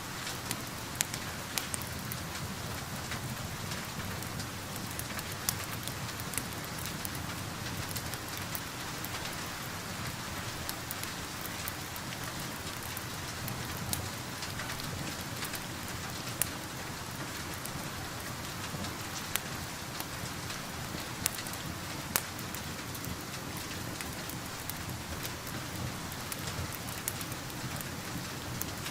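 Steady rain falling, with scattered sharp pops and crackles from a wood fire in a fireplace.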